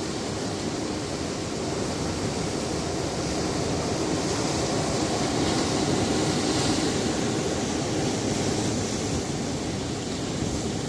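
Sea surf breaking on a rocky shore: a steady wash of water, swelling about halfway through as a wave breaks and then easing.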